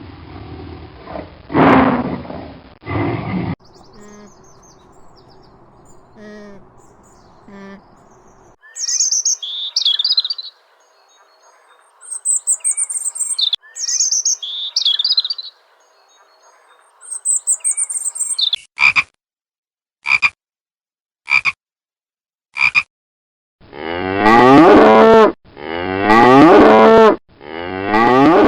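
A string of different animal calls: a low call at the start, then high bird chirps, then four short sharp calls. Three loud, long cow moos end the run.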